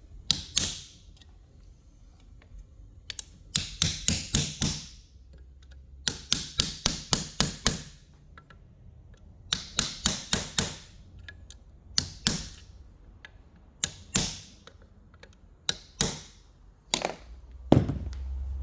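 Sharp taps in quick runs of about five to seven strokes, with pauses between the runs, then single taps and pairs. Near the end comes one heavier knock, followed by a low hum.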